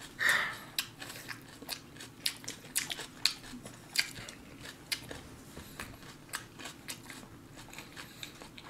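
Someone chewing crunchy food close to the microphone: a string of short, irregular crunches, two or three a second. A brief louder sound comes just at the start.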